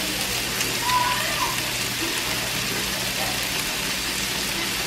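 Chicken pieces and shrimp sizzling as they fry in a pan: an even, crackling hiss over a steady low hum.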